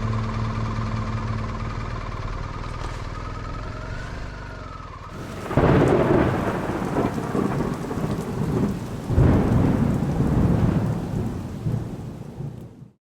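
Background music fading out, then two loud rumbling swells of thunder over rain, the first about five seconds in and the second about four seconds later, each dying away before the sound cuts off abruptly near the end.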